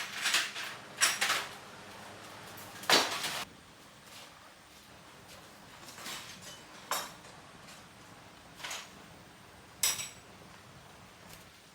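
Irregular metallic clinks and knocks of hand tools and metal parts being handled. The loudest clatters come in the first three seconds, with fainter single knocks spread through the rest.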